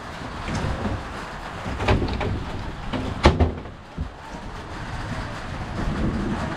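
A few knocks about two seconds in and one sharp bang a little past three seconds, over a steady rushing background noise.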